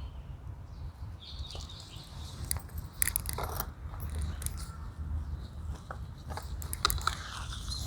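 Crunching and rustling of potting soil and plant roots being handled by hand, in scattered short crackles and clicks.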